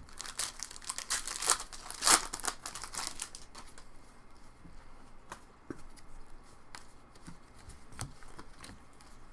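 Foil wrapper of a Topps baseball card pack being torn open and crinkled, loudest about two seconds in. After that come lighter, scattered crackles and ticks.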